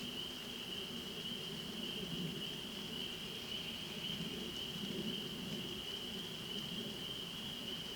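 Steady outdoor animal chorus: a continuous high-pitched trill without a break, over a lower, wavering murmur.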